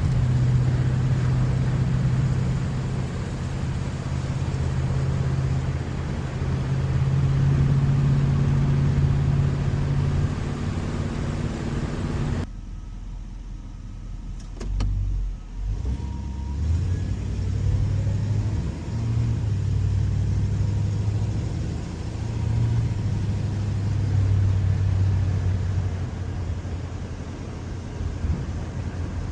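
1956 Chevrolet Bel Air engine running while the car is driven, with road and wind noise. The hiss cuts off suddenly about twelve seconds in, and after that the engine note rises and falls in steps.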